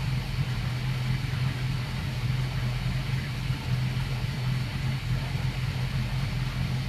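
Boat's inboard engines idling steadily while warming up to operating temperature.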